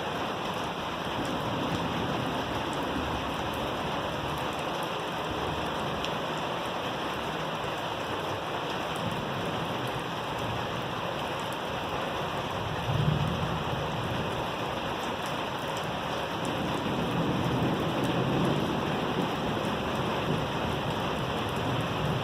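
Steady heavy rain falling on surfaces during a thunderstorm, with thunder rumbling: a sudden low rumble about halfway through and a longer, swelling rumble later on.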